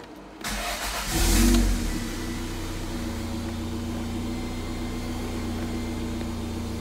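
1993 Toyota MR2 Turbo's 2.0-litre turbocharged four-cylinder engine starting: it cranks briefly, catches with a short flare of revs about a second in, then settles into a steady idle.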